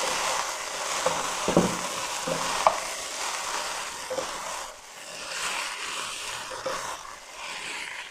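Chow mein noodles with chicken and vegetables sizzling in a nonstick wok as they are tossed with two silicone spatulas, with scattered soft knocks and scrapes of the spatulas against the pan. The sizzle dips briefly about halfway through.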